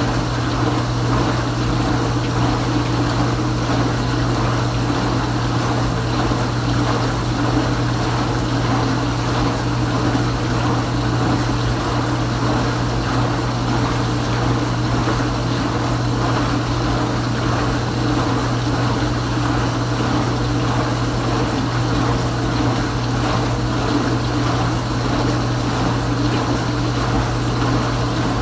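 Kenmore Ultra Wash 3 dishwasher running its normal cycle: a steady pump motor hum with water spraying and splashing inside the tub, unchanging throughout.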